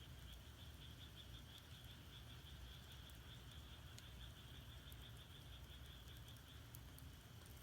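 Faint rapid trilling of frogs, weakening near the end, with a few soft crackles from firewood burning in a wood-fired furnace.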